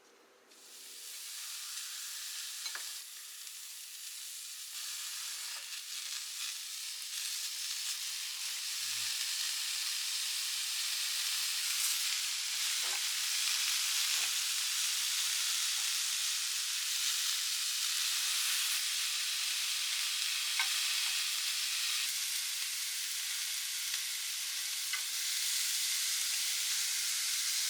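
Torn pine mushrooms sizzling in a dry frying pan with no oil, the sizzle starting about a second in and slowly building louder, with a few faint knocks.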